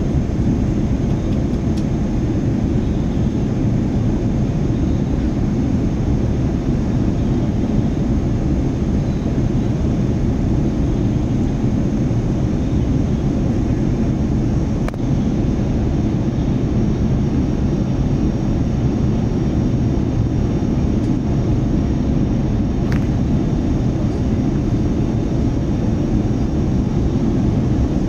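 Steady low roar of an airliner in cruise flight, heard from inside the cabin: an even rumble with a light hiss above it. A faint click about halfway through.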